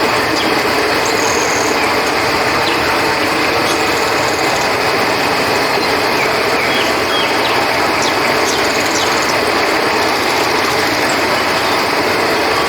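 Steady rush of a flowing river, with a constant high drone of crickets over it. A few short, high chirps come through, about a second in and again near the nine-second mark.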